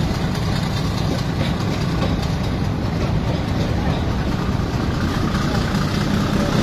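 Bangladesh Railway passenger coaches rolling past on the rails, their wheels making a steady low rumble.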